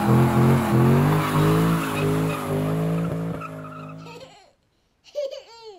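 Ford Mustang V8 revving in pulses, then held, as the car spins; it fades out about four seconds in. Near the end comes a baby's short rising-and-falling voice.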